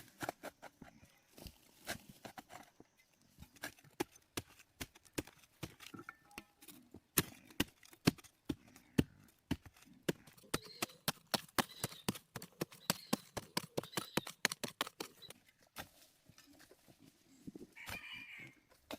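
A fast, irregular run of sharp clicks and knocks, thickest in the middle, with a short high call near the end.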